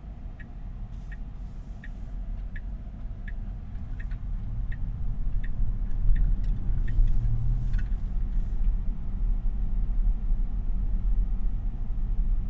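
Inside the cabin of a Tesla Model Y, a low road and tyre rumble grows louder as the car picks up speed, with no engine sound. Over the first half, the turn-signal indicator ticks steadily, about one tick every 0.7 seconds, then stops.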